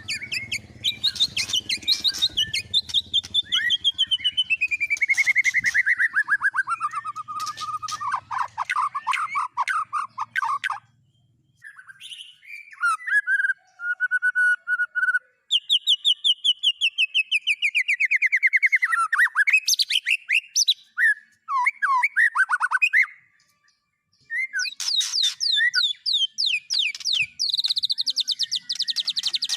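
Songbird song: fast trills of rapid repeated notes, several sliding down in pitch, broken by two brief pauses.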